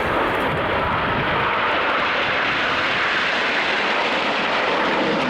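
Jet noise from the Frecce Tricolori's Aermacchi MB-339 formation flying over: a loud, steady rushing sound that swells slightly in the middle.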